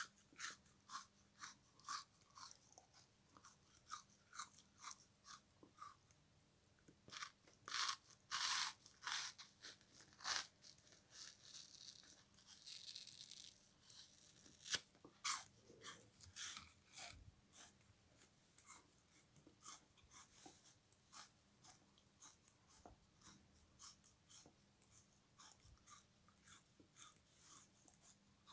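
A frozen sponge soaked in lemon-kiwi syrup being bitten and chewed close to the microphone: a steady run of short crunches, a few a second, with a louder burst of crunching about eight to ten seconds in.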